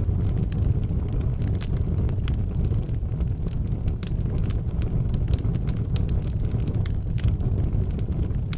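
Wood fire burning in an outdoor fireplace: frequent sharp crackles and pops over a steady low rumble.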